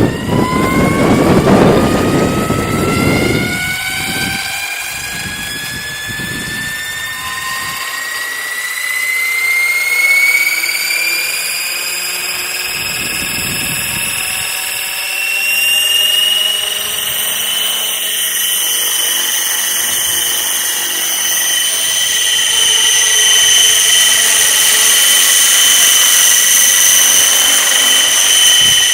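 Outrage Fusion 50 RC helicopter spooling up: a whine from its motor and rotor drive climbs steadily in pitch over about fifteen seconds, then holds at a steady high pitch as it reaches flying speed. Gusts of wind rumble on the microphone in the first few seconds.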